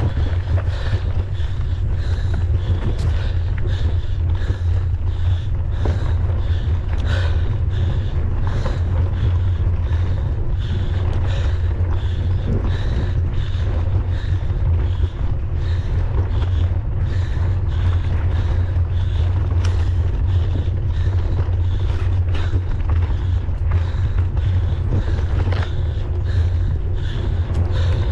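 Wind buffeting the microphone of a camera on a mountain bike riding fast on a trail, a steady low rumble, with frequent clicks and knocks from the bike rattling over rough ground.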